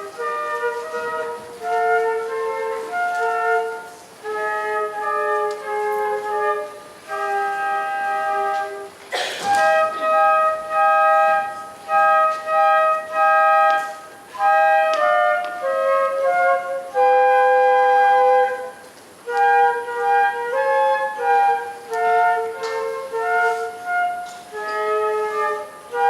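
Student flute playing a traditional folk-song melody, a tune of separate held notes with short breaks between phrases. A brief rustle or bump is heard about nine seconds in.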